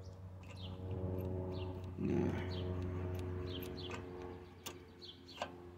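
A bird chirping over and over, short falling chirps about every half second, over a steady low machine hum. A few sharp clicks come near the end as metal carburetor parts are handled.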